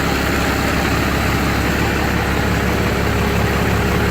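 1998 Ram 3500's 12-valve Cummins 5.9-litre inline-six diesel idling steadily just after a cold start in about 10°F weather, block heater plugged in.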